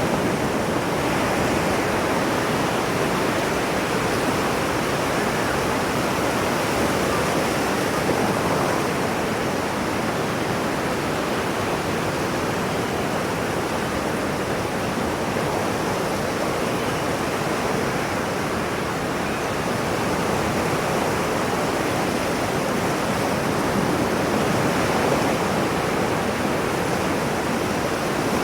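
Ocean surf: a steady rushing wash of waves that only swells and eases slightly.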